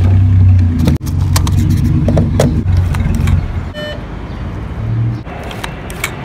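A car engine running with a low hum for about three and a half seconds, under small clicks and rattles from handling the car's fuel door and a gas pump's card reader.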